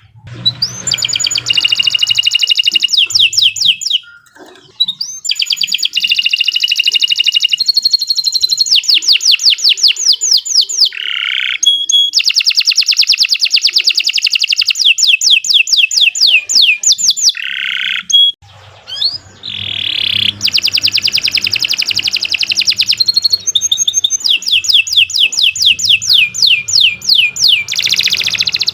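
Domestic canary singing a long, continuous song: high-pitched rolls of fast repeated notes, about ten a second, broken by a few downward-swooping notes. The song pauses briefly about four seconds in and again about eighteen seconds in.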